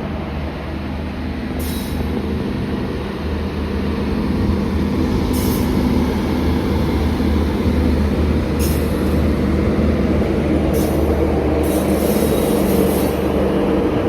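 Indian Railways electric train running on the track, a steady rumble that grows louder over the first few seconds, with brief sharp high-pitched bursts from the wheels and rails every few seconds.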